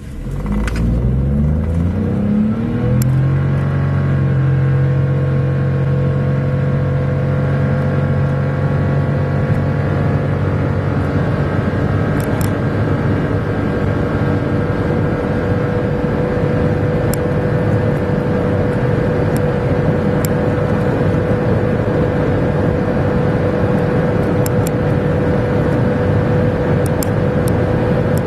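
Daihatsu Rocky / Toyota Raize 1.0-litre three-cylinder turbo engine starting up. Its revs climb over the first few seconds, then it runs steadily at raised revs with a steady whine on top.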